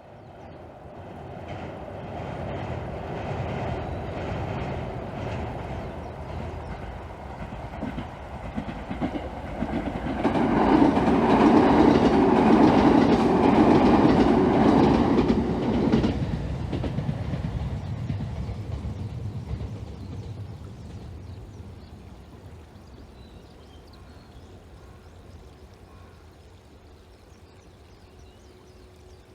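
A 287 series limited express electric train passing: the rumble and clatter of its wheels on the rails grows over about ten seconds, is loudest from about ten to sixteen seconds in, then fades away as it recedes.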